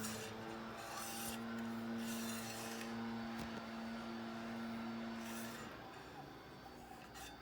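Servo motors (ClearCore, run as film feed/takeup motors) holding the film in position, giving a steady electrical hum that cuts off about five and a half seconds in, with bursts of light hiss along the way.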